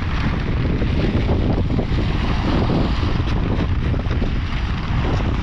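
Blizzard wind blowing hard and buffeting the microphone: a loud, steady rushing with a heavy low rumble.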